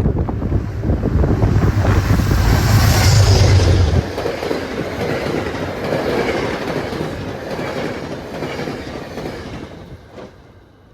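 Passenger train passing close by. A heavy low rumble drops away sharply about four seconds in, then the wheels click over the rail joints as the cars go by, and the sound fades out near the end.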